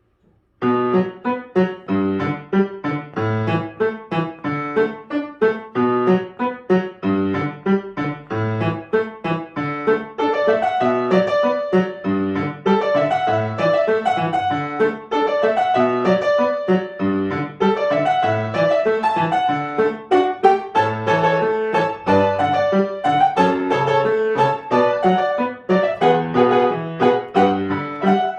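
Solo piano piece starting about half a second in: a quick run of notes over a repeating bass pattern.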